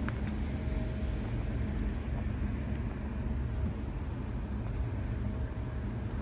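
Steady low rumble of ship's machinery, with a constant low hum and a faint higher tone that comes and goes.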